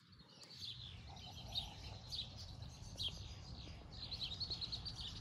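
Songbirds chirping: a run of short, high, downward-sliding calls repeating every half second or so, with a quick trill near the end, over a faint low background rumble.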